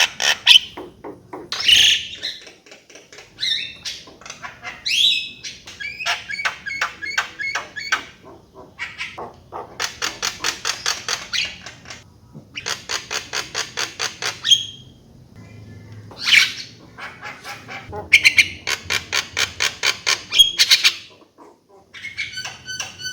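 Javan myna singing: harsh squawks and short whistled notes alternating with long, rapid rattling runs of clicks, in bursts of one to three seconds with short pauses between.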